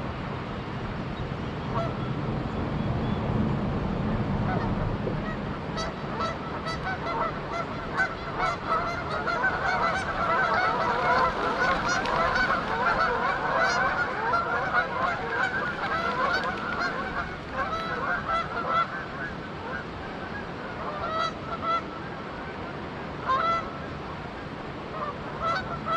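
A flock of Canada geese honking, many calls overlapping, building to a dense chorus in the middle and thinning to scattered honks near the end, over the steady hiss of flowing river water. A low rumble is heard in the first few seconds.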